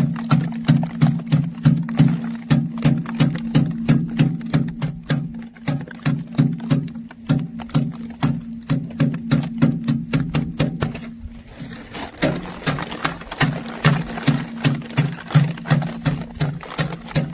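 Sorghum heads being threshed: an even, rhythmic knocking about three times a second, each stroke with a low pulsing hum, with a short break about eleven seconds in before it picks up again.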